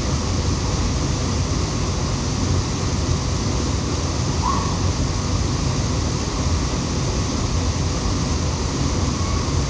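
Waterfall rushing, a steady full roar of falling water. A single brief faint chirp near the middle.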